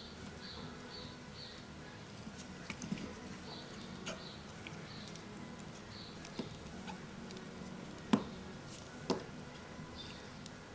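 Scattered small clicks and taps of tools and parts being handled during smartphone repair work, the loudest a little past halfway, over a low steady hum.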